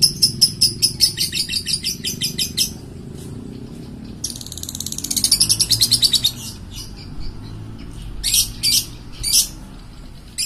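Bird chirping: a fast series of high, repeated notes, a quicker trill about four seconds in, then a few separate chirps near the end, over a steady low rumble.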